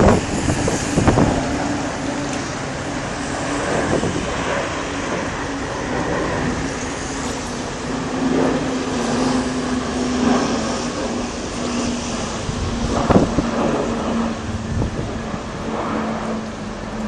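Aircraft passing overhead: a steady broad engine rumble with one tone in it that drifts slowly lower in pitch.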